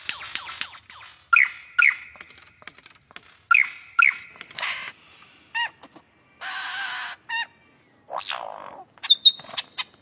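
A bird calling: sharp, downward-slurred notes, mostly in quick pairs, with a harsh rasping sound lasting under a second about two-thirds of the way through.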